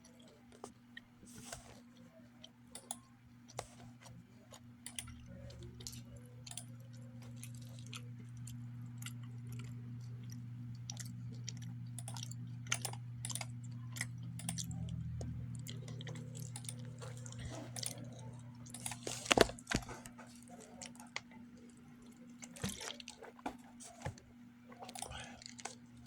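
A person chewing a soft, chewy granola bar close to the microphone, with many small wet mouth clicks and smacks, one louder about 19 seconds in. A steady low hum lies underneath.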